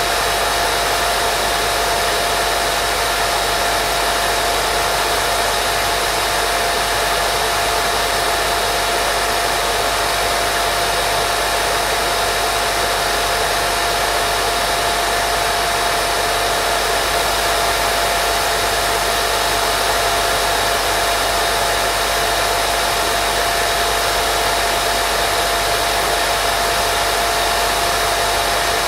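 Steady white noise for baby sleep: an even, constant hiss with a faint steady tone running through it, never changing.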